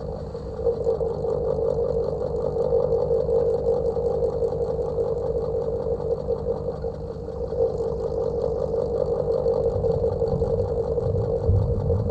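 Old house fan running: a steady motor hum with a fast, even pulse. A deeper rumble swells briefly near the end.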